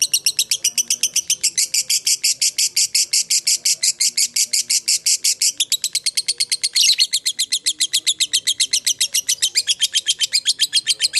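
Lovebird singing a long ngekek: an unbroken, rapid chatter of sharp high notes, about eight a second, with one louder harsh screech about seven seconds in.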